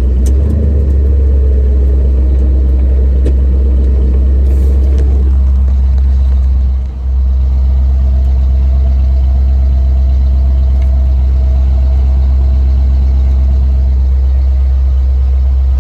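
1974 Ford F100 pickup's engine running steadily while it drives, heard from inside the cab with a heavy low rumble of engine and road noise. The level dips briefly about seven seconds in.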